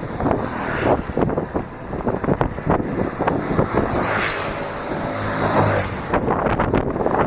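Bicycle rattling over a bumpy dirt trail, with many quick knocks and clatters and wind rushing on the microphone. A low hum comes in briefly about five seconds in.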